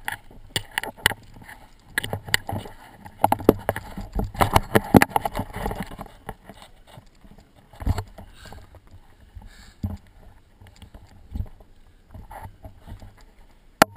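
Irregular clicks, knocks and rustling of movement close to the microphone: footsteps and handling noise of a person walking with the group. The knocks come thickest a few seconds in, then thin out to single knocks.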